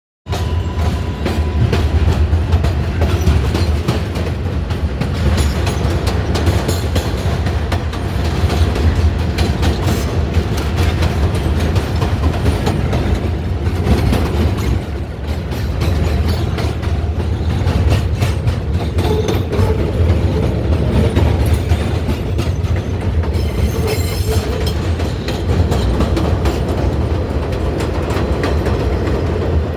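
R142A subway train running along the track, with a steady low rumble and frequent clicks of the wheels over rail joints.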